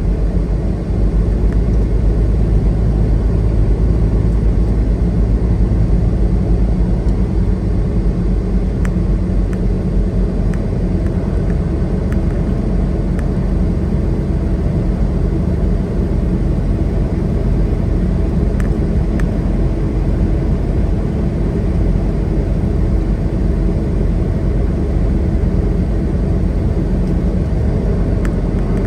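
Semi truck running at road speed: a steady low rumble of diesel engine and tyre noise that holds even throughout.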